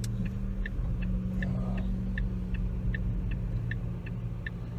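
Car interior: a steady low engine and road hum with a turn-signal indicator ticking evenly, between two and three ticks a second.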